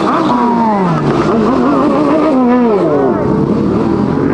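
High-performance car engine revving hard as the car accelerates away, its pitch dropping and climbing again several times.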